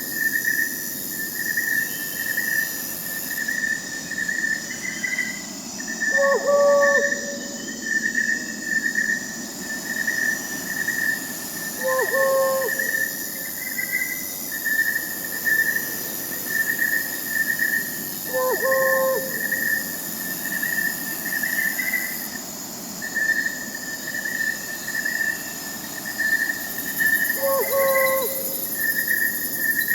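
Crickets chirping in a steady pulsing trill, with an owl hooting four times, a few seconds apart, over a soft hiss of night-forest ambience.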